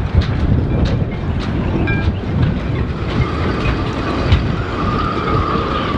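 Strong Mistral wind gusting across the microphone: a loud buffeting rumble with scattered knocks and rattles, and a thin high whistle that comes in about three seconds in.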